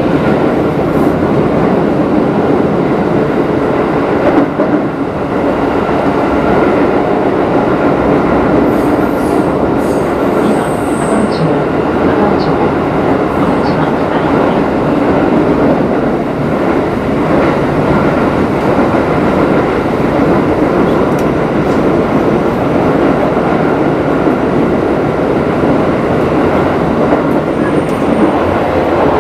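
Keikyu 1000 series electric train (set 1033) running steadily at speed through a subway tunnel, with a continuous rumble of wheels and running gear. A brief faint wheel squeal comes about a third of the way through.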